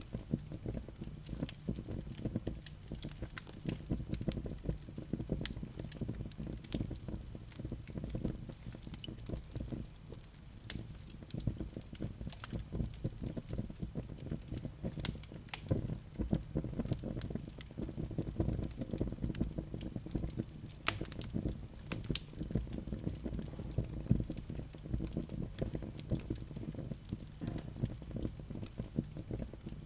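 Wood fire crackling in a fireplace: frequent, irregular small snaps and pops over a steady low rumble of the flames.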